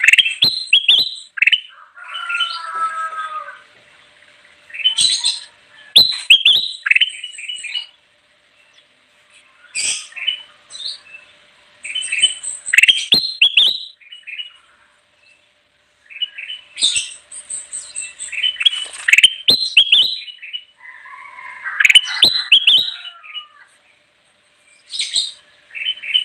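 Kutilang emas bulbul singing steadily: loud bouts of quick, chattering whistled notes, one after another with short pauses between, mixed with a few lower warbled notes.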